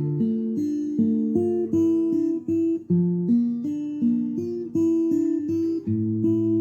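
Instrumental music: an acoustic guitar playing chords, the notes changing about every half second.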